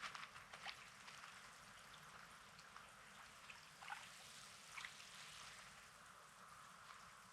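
Faint wash of small sea waves lapping on a rocky sand beach, with a few soft crunches of footsteps.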